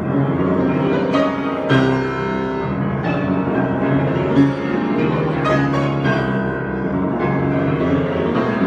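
Improvised piano or keyboard music: held chords, with a new chord struck every second or two.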